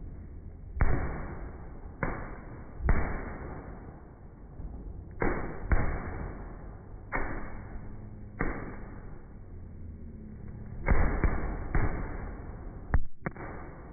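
Fireworks going off in a barrage: about a dozen bangs, each with a long fading rumble, some in quick clusters of two or three near the end.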